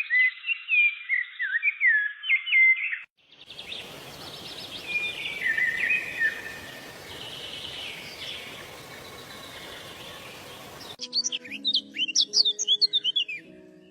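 Songbirds singing in three spliced recordings. First a bird repeats short hooked whistles. After a brief gap, birds sing over a steady rushing background noise. Near the end come rapid high chirps over soft sustained background music.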